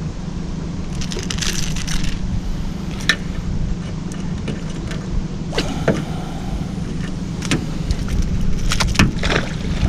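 Steady low hum of a fishing boat's motor, with scattered clicks, knocks and light metallic rattles of gear being handled in the boat.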